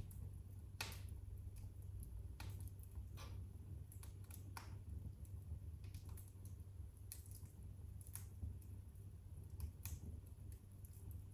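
Wood fire in a fireplace crackling: sharp pops about once every second or two, irregularly spaced, over a low steady rumble.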